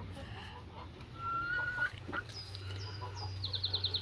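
A pen of young chickens clucking and calling, with one drawn-out, slightly rising call about a second in and a quick run of high chirps near the end.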